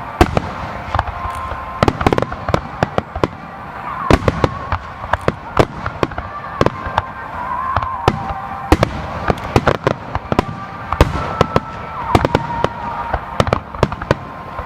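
Fireworks display: a rapid, dense run of shell bursts and crackling reports, several sharp bangs a second, with no let-up.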